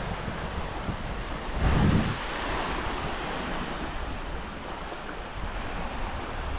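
Baltic Sea surf washing onto a sandy beach, with wind buffeting the microphone; a louder surge about two seconds in.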